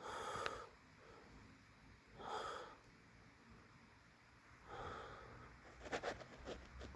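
A man breathing hard through his nose, faint: three breaths about two and a half seconds apart, then a few small clicks near the end.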